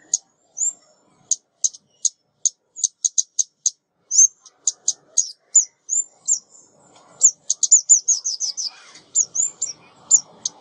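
A female ốc mít, a small songbird, calling a string of very high, short, downward-sweeping chips, a few a second, with a quick run of chips about three quarters of the way through. It is a decoy recording used to lure birds.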